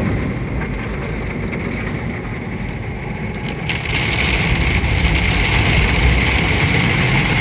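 Automatic car wash machinery running over a car: a steady, rough scrubbing and spraying noise with a high whine. It grows louder about three and a half seconds in.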